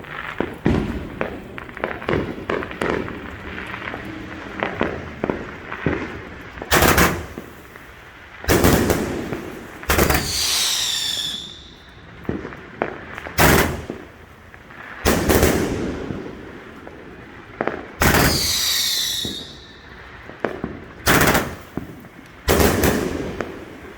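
Consumer fireworks going off: a rapid run of crackling pops, then a series of loud booms from bursting aerial shells, each with a rumbling tail. Twice a cluster of whistles falls in pitch.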